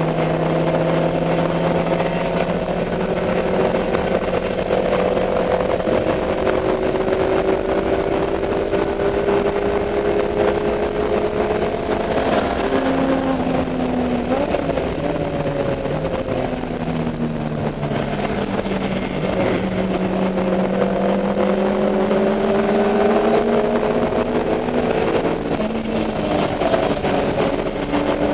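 Dodge Neon race car's four-cylinder engine heard from on board at racing speed, its note rising and falling as the car accelerates and slows for corners, with a drop in pitch a little under halfway through and another around two thirds of the way, each followed by a climb.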